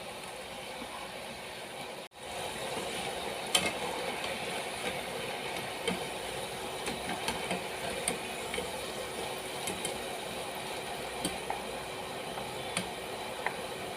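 Potato strips deep-frying in hot oil: a steady sizzle with scattered pops and crackles. The sound drops out briefly about two seconds in, then goes on slightly louder.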